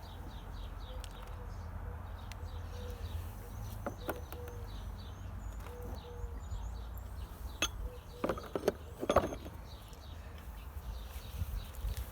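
A few sharp knocks and taps, mostly bunched together past the middle, over a steady low hum, with small birds chirping faintly in the background.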